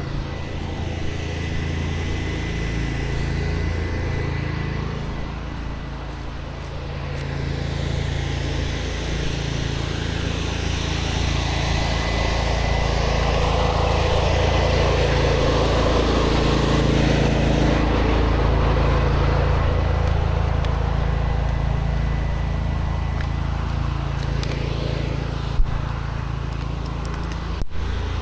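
Pressure washer running: a steady engine hum under the hiss of the water spray, the spray louder in the middle stretch. Two sharp clicks near the end.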